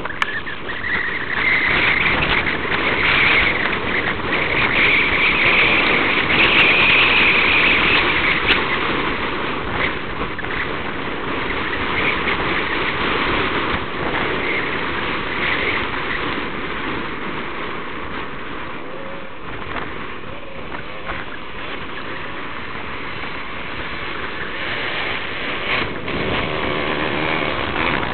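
Motocross motorcycle engine running hard on an uphill climb, loudest in the first third, easing off in the middle and building again near the end.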